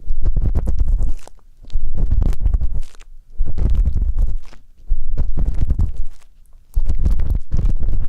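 Ear pick tip rubbing and scraping in an ear right at the microphone, in five crackling, rumbly strokes of about a second each with short pauses between them.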